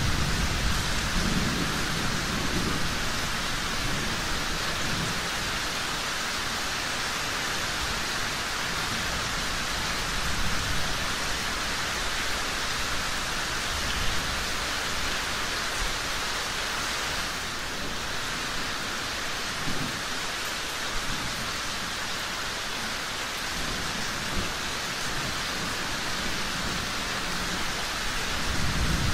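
Steady, dense rainfall, with low rumbles swelling near the start, once about two-thirds through, and again near the end.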